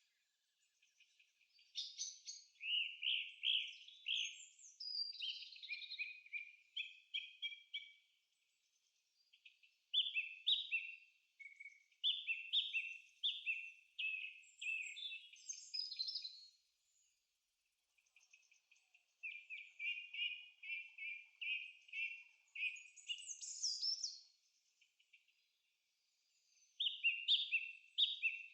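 Songbird singing in bouts of quick, high chirping notes, each bout a few seconds long with short pauses between them.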